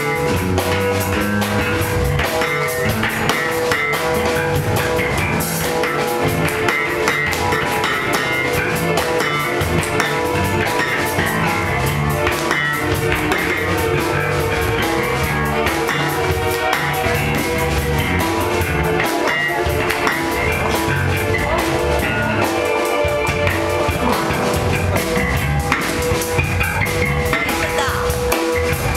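A band playing rock music with a drum kit and guitar, continuous and loud.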